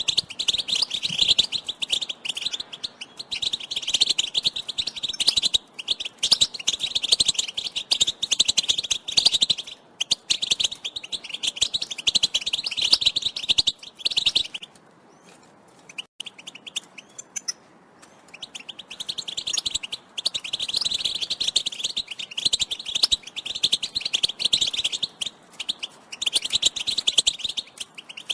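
European goldfinch chattering in fast twittering call notes, the kind used to stir caged males into song. The chatter nearly stops for a few seconds about halfway through, then starts again.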